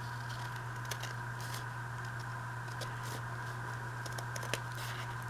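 Paper and scissors being handled: a few light clicks and short rustles of envelope paper, over a steady electrical hum.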